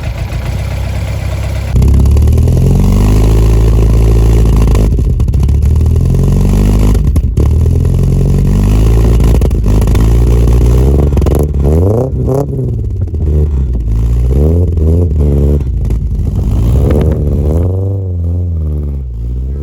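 Car engine running and being revved repeatedly, its pitch climbing and falling with each rev. It gets much louder about two seconds in, with quick short revs later on.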